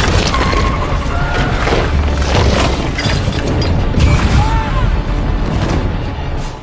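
Film action sound mix: booms and crashing impacts over a music score, loud and dense throughout, cutting off suddenly at the end.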